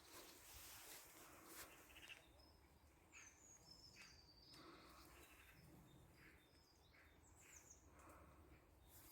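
Faint bird chirps: short high calls and a few quick sliding notes, scattered over near-silent outdoor quiet.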